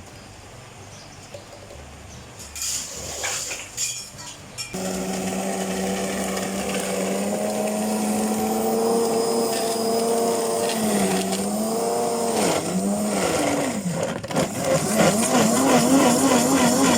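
Electric blender motor starts about five seconds in and runs steadily, its pitch sagging and dipping several times as it chews through ice, then wavering near the end. Before it starts, a few clinks and clatter.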